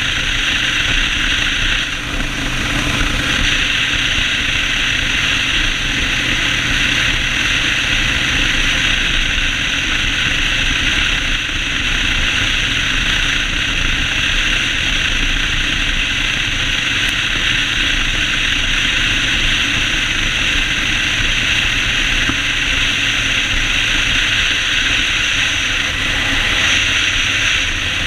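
Yamaha Road Star 1600 V-twin motorcycle running steadily on the move, with a constant hiss of riding noise over the engine.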